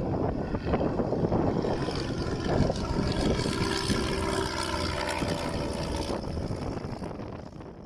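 Piper Pawnee 235 crop-duster's engine and propeller droning on a low pass, building to its loudest in the middle and fading away near the end, with wind buffeting the microphone.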